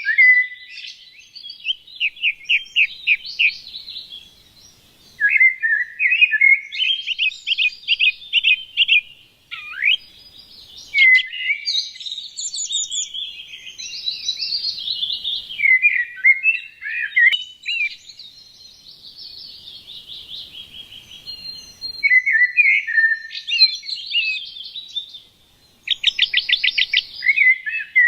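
Small songbirds chirping and singing, several voices overlapping in quick trills and short twittering phrases, with a rising whistle about ten seconds in.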